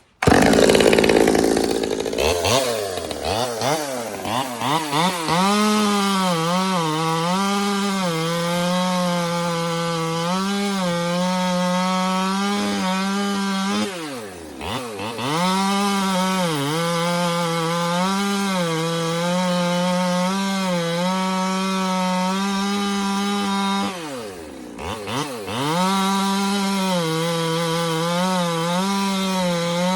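Stihl 200T top-handle chainsaw's two-stroke engine comes in suddenly and runs at high revs, the pitch wavering slightly. Twice, about 14 and 24 seconds in, the revs sink briefly and climb back. The saw is being run hard to warm it up after a cracked tank hose and a faulty tank vent were fixed.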